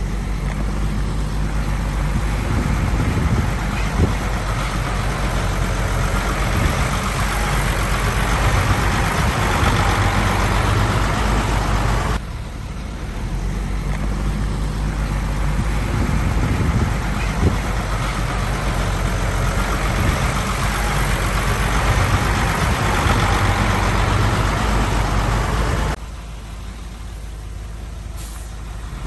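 Heavy diesel machinery running: a deep, steady engine rumble that swells and eases as the engines work. The sound changes abruptly twice, about 12 and 26 seconds in.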